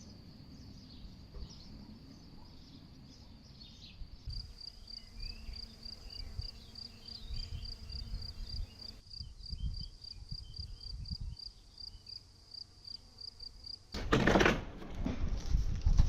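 An insect, cricket-like, chirping in a steady high-pitched rhythm of about two to three chirps a second, over low uneven rumbling. About two seconds before the end a loud rubbing, scraping noise cuts in.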